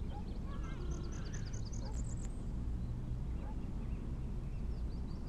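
Birds chirping in quick runs of short high notes, over a steady low hum.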